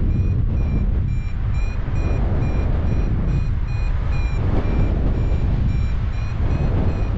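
Paragliding variometer beeping: short high beeps about three times a second, the climb tone that signals the glider is rising. Heavy wind rumble on the microphone from the flight runs under it and is the loudest sound.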